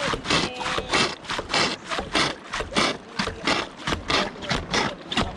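Hand bilge pump worked quickly, about three strokes a second, each stroke a rushing splash of water: pumping out a swamped kayak.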